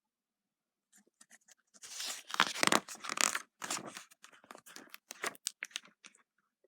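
Paper rustling and crinkling as a page of a picture book is handled and turned, with scattered clicks and a louder rustle about two to three seconds in.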